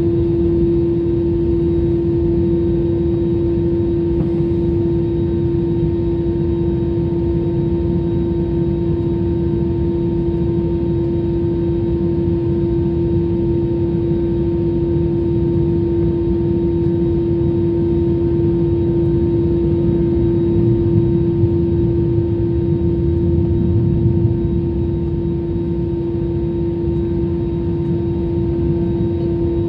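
Jet airliner cabin noise: the engines run steadily with a strong constant hum and a rushing background, with no rise or fall in pitch.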